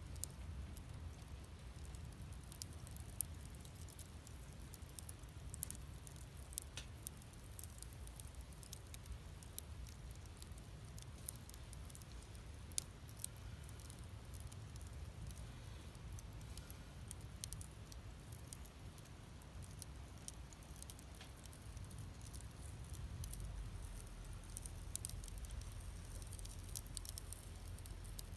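Wood fire burning in a fire stand, crackling with scattered sharp pops over a low steady rumble.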